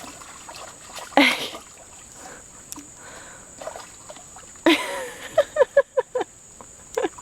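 A woman laughing: a short voiced sound about a second in, then past the middle a burst of laughter in a quick run of short 'ha' sounds, about five a second.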